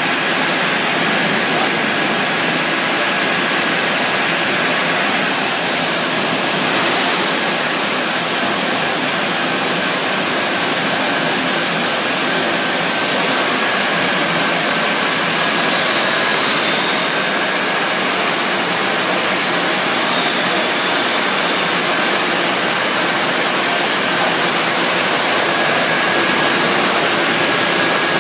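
Steady, even hiss of barrel-production-line machinery, with a faint high whistle held throughout.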